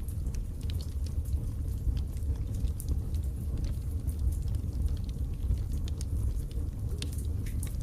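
Wood fire in a fireplace crackling: scattered sharp snaps and pops over a steady low rumble.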